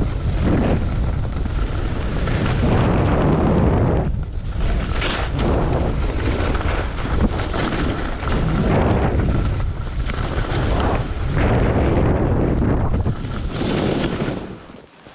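Wind rushing over the microphone and skis hissing through snow on a downhill ski run, swelling and easing with each turn about every one and a half to two seconds. The noise drops away near the end as the skier slows.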